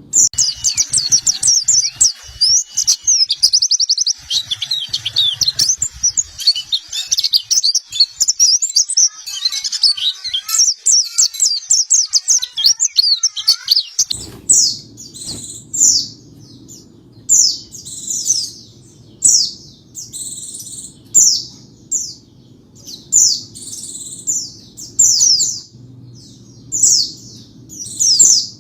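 White-eye (pleci) singing. A fast, dense, high twittering song gives way about halfway through to short high chirping phrases repeated about once a second, with a low steady hum underneath them.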